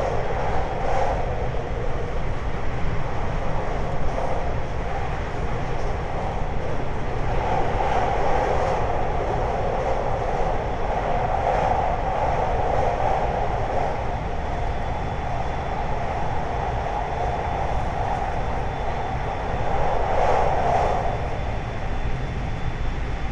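Running sound of a 521 series electric multiple unit heard from inside the car at speed: a steady rumble of wheels on rail, with a few faint clicks.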